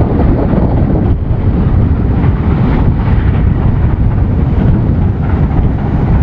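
Strong wind buffeting the microphone, making a loud, steady low rumble.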